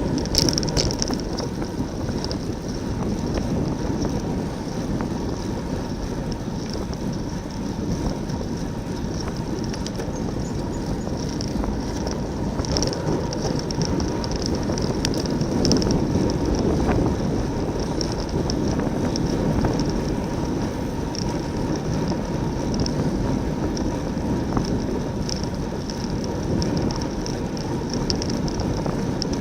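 Steady rush of wind and road noise from a racing bicycle ridden at speed in a pack, heard on the rider's own camera microphone.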